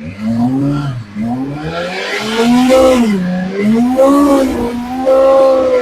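BMW M1000RR Competition's inline-four engine revved repeatedly through a short aftermarket exhaust muffler, its pitch rising and falling about once a second as the throttle is blipped toward 8,000 RPM.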